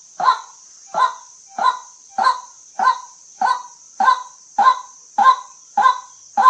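White-breasted waterhen calling, a short harsh 'kwak' repeated evenly at nearly two calls a second, over a steady high hiss.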